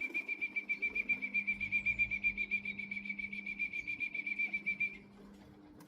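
A high, trilling whistle held at one pitch and pulsing rapidly, about eight pulses a second, for roughly five seconds before it stops. It is used to call racing pigeons down into the loft.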